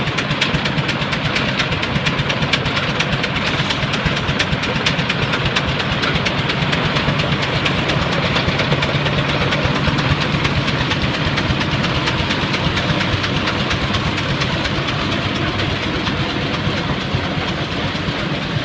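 Case 20-40 tractor engine running steadily, with an even, rapid beat.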